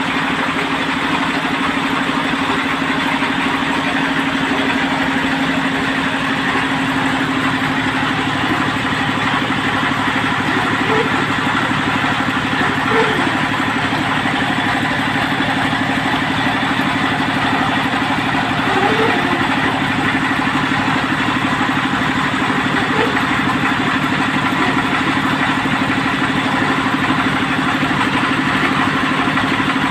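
Engine of a well-drilling machine running steadily at an even speed.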